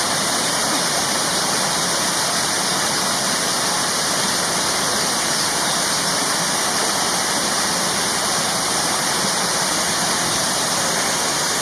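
Steady, unbroken rushing of falling water, a dense hiss with no pauses or changes.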